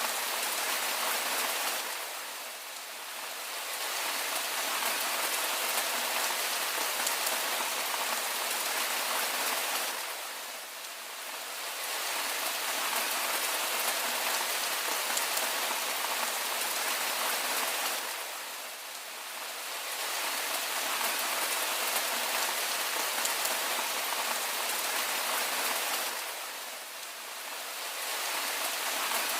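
Steady rain falling, a dense even hiss that dips briefly in level about every eight seconds.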